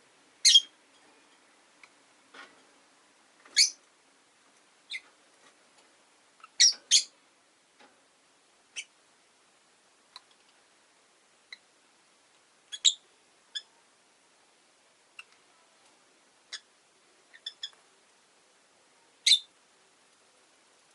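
Rosy-faced lovebirds giving short, sharp, high-pitched chirps, single or in quick pairs, scattered irregularly with pauses of a second or more between them.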